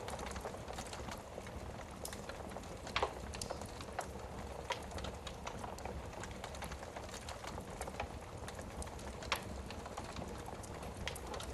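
Wood fire burning in a fireplace: a steady hiss of flames with irregular crackles and sharp pops, two louder pops about three seconds in and near the end.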